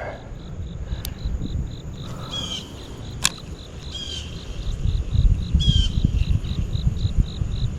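Insect chirping in an even rhythm, about three high chirps a second, with a few short falling chirps now and then. A low rumble runs underneath, and there are two sharp clicks, one about a second in and one about three seconds in.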